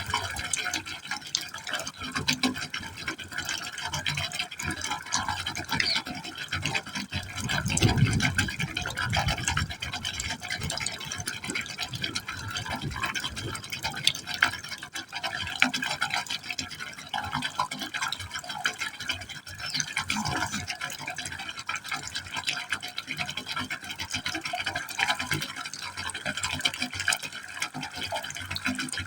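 Water falling into a pipe hole, splashing and gurgling steadily, with a heavier, deeper gush about eight seconds in.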